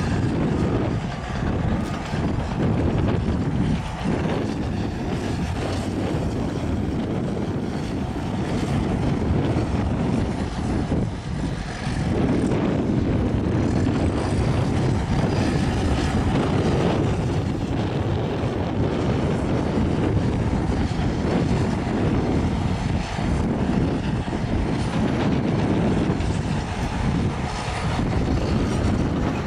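Caterpillar crawler bulldozer's diesel engine running steadily while working, with its level surging and easing a little now and then.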